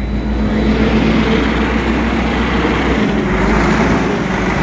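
Mercedes diesel engine of a Sterling crane truck being revved and held at raised speed, running smoothly.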